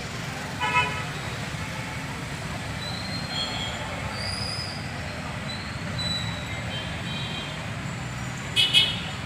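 Busy road traffic running steadily, with short vehicle horn honks about a second in and twice near the end.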